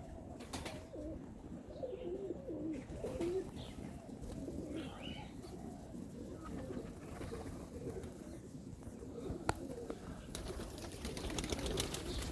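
Serbian highflyer pigeons cooing, low wavering calls that go on throughout. A single sharp click comes about three-quarters of the way through.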